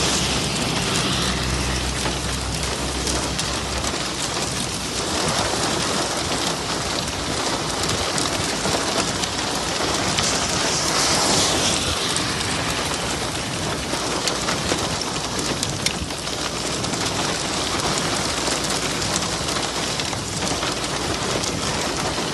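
Heavy rain pouring down in a steady, dense downpour, with a low rumble underneath during the first few seconds.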